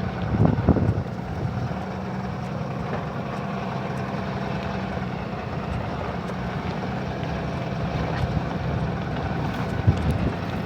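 Ram tow truck's Cummins diesel engine running steadily as the truck drives along a snowy trail, with a couple of knocks from the truck jolting, about half a second in and again near the end.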